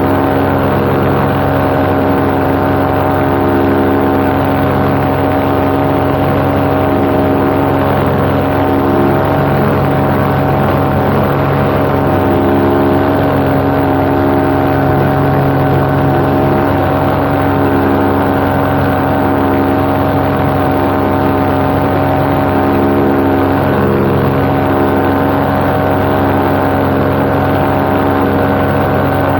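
Paramotor engine and propeller running steadily at cruise power, a constant loud drone with a slow, even beating in its low notes.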